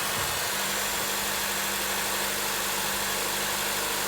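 Van engine idling steadily on freshly replaced spark plugs and a new number 2 ignition coil. The idle is smooth, which the owner takes as the cure for the misfire (code P0302) that had made it run rough.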